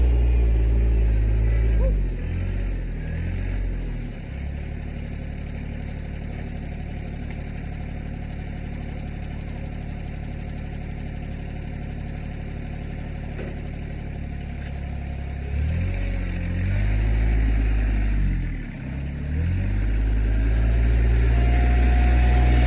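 RK24 compact tractor's diesel engine running under throttle, then dropping about two seconds in to a steady idle. From about sixteen seconds it revs up and down a few times, and near the end it settles back to a loud, steady higher speed.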